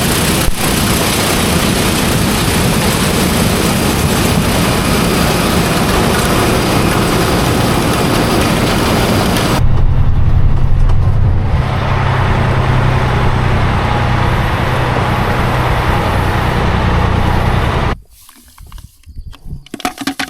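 Combine harvester running while harvesting corn: a loud, steady machine noise. About ten seconds in it changes abruptly to a deeper engine rumble, and about eighteen seconds in it drops away suddenly to faint, scattered sounds.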